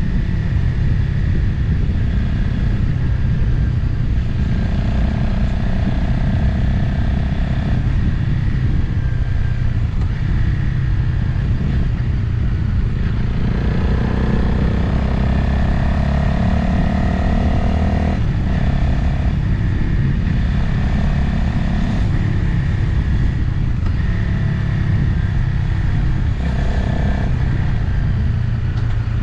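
Motorcycle engine running at road speed, with wind rushing over the microphone. About halfway through the engine note climbs for a few seconds and then drops suddenly.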